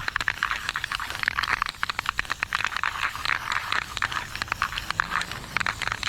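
Aerosol can of black guide coat being shaken, its mixing ball rattling in quick, irregular clicks.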